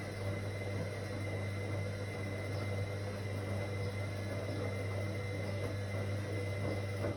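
Whirlpool AWOC 8283 washing machine running with a steady low hum and a faint high whine, cutting off abruptly at the very end.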